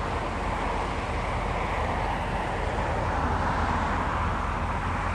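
Steady roar of distant jet engines across the airfield, with a low rumble underneath.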